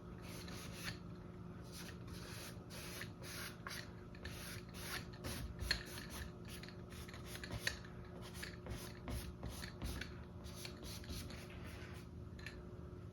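Bristles of a filbert paintbrush scrubbing and dabbing acrylic paint onto a stretched canvas in short, scratchy strokes, two or three a second, with a couple of sharper taps about midway.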